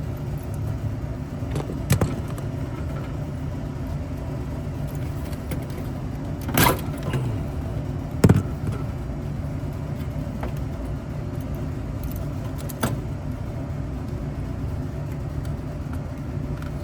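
Steady low machinery hum with a few sharp metallic clicks and knocks spread through it, the loudest about eight seconds in, from hands and tools working tight wire connectors on an air-conditioning unit's terminals.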